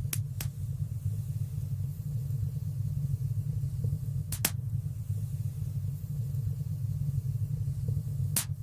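Wood fire burning in a fireplace: a steady low rumble with a few sharp crackles, two in quick succession at the start, one about four and a half seconds in and one near the end.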